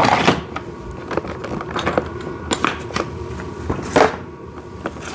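Loader parts of a kids' ride-on excavator being handled and set down: scattered light clicks and knocks, with a couple of louder clatters, over a faint steady hum.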